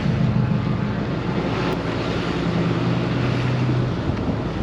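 A vehicle engine running steadily, its hum shifting to a lower pitch about halfway through, with wind on the microphone.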